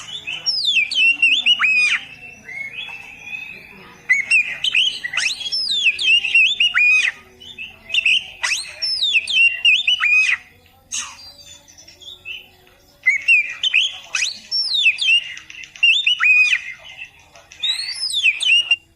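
Oriental magpie-robin (kacer) singing: repeated phrases of quick, sharply falling whistled notes, broken by short pauses.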